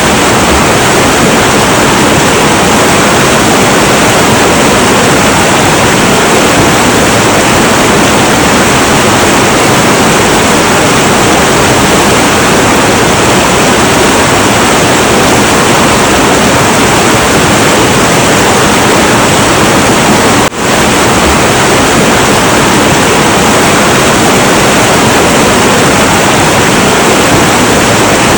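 Heavy, turbulent river water flowing in a loud, steady rush, with a momentary dip in level about two-thirds of the way through.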